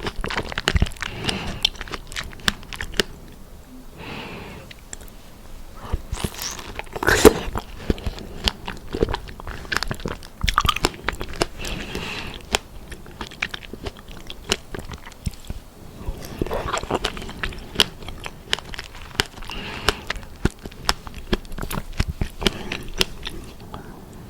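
Close-up eating sounds of a person biting and chewing dipped strawberries: a continuous run of sharp, wet, crunchy clicks and smacks, with denser bursts at several bites.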